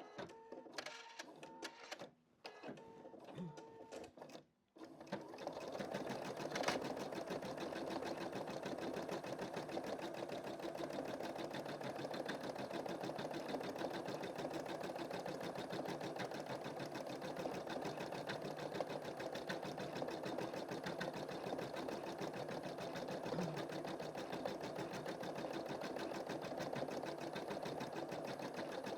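Embroidery machine stitching a design. It is quieter and stop-start for the first few seconds, with two brief silences, then runs steadily with a fast, even needle rhythm from about five seconds in.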